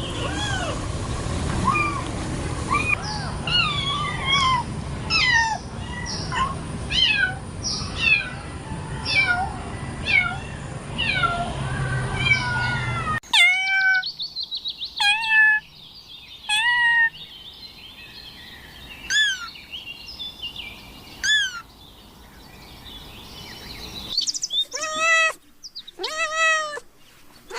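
Kitten mewing again and again in short, high, rising-and-falling calls. About 13 seconds in, the background changes abruptly, and the mews become spaced out, with a quick run of them near the end.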